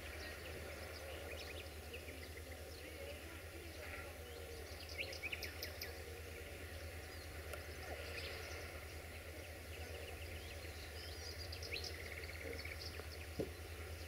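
Small birds chirping in short scattered calls over a low, steady rumble, with one sharp tick near the end.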